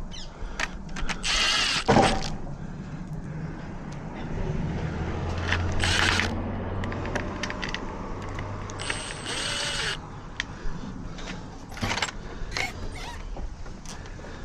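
Cordless drill-driver driving screws in three short runs, each a brief motor whine, with clicks and knocks of handling in between.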